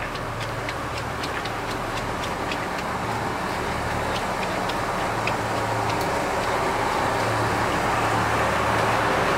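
Low hum of the idling diesel engines of a KiHa 85 Wide View Hida express standing at a station, under a steady hiss of heavy rain with scattered light taps. The hiss grows slowly louder.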